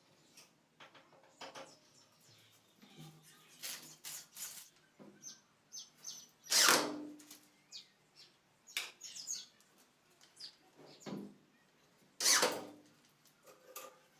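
Irregular taps and knocks of hand work on a wooden cabinet, with two louder knocks about six seconds apart, each ringing briefly. Short high chirps come in between.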